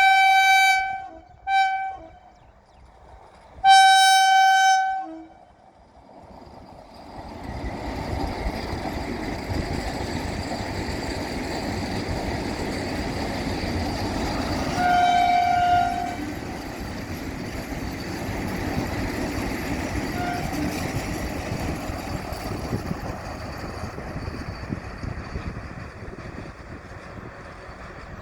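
Vande Bharat Express electric trainset sounding its horn: two blasts, then a longer third. It then passes with a steady rumble of wheels on rails, with one more short horn blast partway through.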